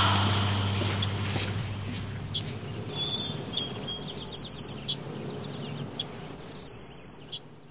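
A songbird singing: runs of quick, high chirps, three times rising into a brighter sustained trill. At the start, the last chord of a song is still dying away beneath it, and all sound stops just before the end.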